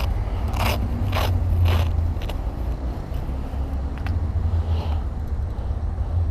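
Motorcycle engines running as a steady low rumble. A few sharp crackling bursts come in the first two seconds.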